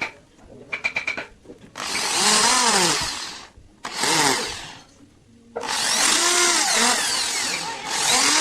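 Handheld electric drill running in four bursts, its motor pitch rising and falling within each run. A few light clicks come before the first burst.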